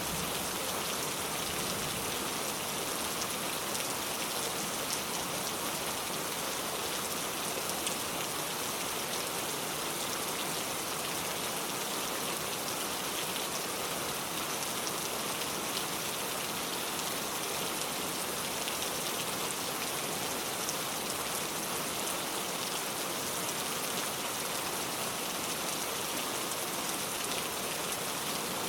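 Steady rain falling on a car, a constant hiss of drops pattering on the body and glass.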